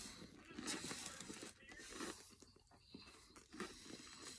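A person chewing a mouthful of crunchy nacho-cheese-dusted hard taco shell with meat and cheese, close to the microphone: irregular crisp crunches and wet mouth sounds.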